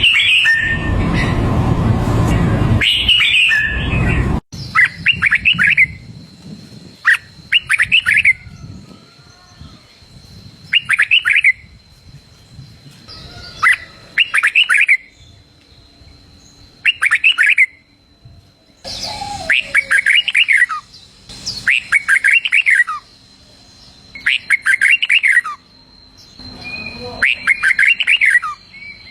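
Red-whiskered bulbul singing: short, bright, warbled phrases repeated every two to three seconds, the song used to train young cage bulbuls. A loud noisy passage fills the first four seconds and cuts off abruptly, and a faint steady high tone runs under the song.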